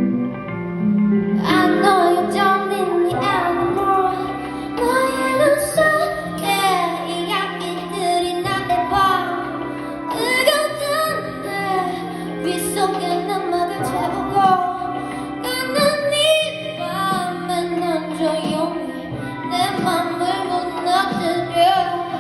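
A woman singing a song live over sustained instrumental accompaniment, her voice coming in about a second and a half in.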